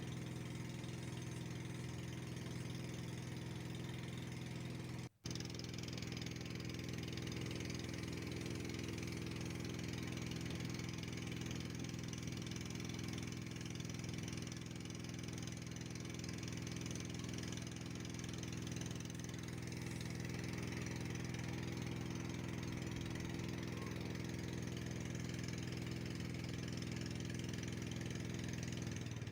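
Boat motor running steadily at an even pitch, with a brief break about five seconds in.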